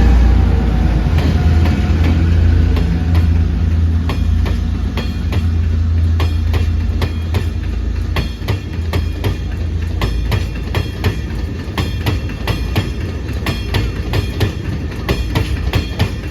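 Freight train of stone hopper wagons pulling away behind two diesel-electric locomotives: a heavy, low engine drone that fades over the first several seconds, then wagon wheels clacking over rail joints, the clacks coming quicker as the train picks up speed.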